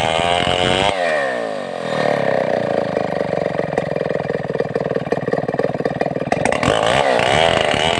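Stihl 070 two-stroke chainsaw running at high speed, then dropping off to a low, even idle with a distinct firing beat about a second in, and revving up again near the end.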